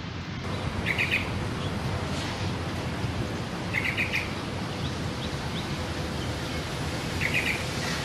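A songbird calling: three brief bursts of quick, high chirps about three seconds apart, over steady outdoor background noise.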